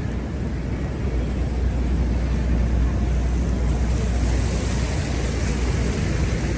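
Steady city street noise dominated by a deep, continuous rumble, with a hiss that grows a little brighter about two-thirds of the way through.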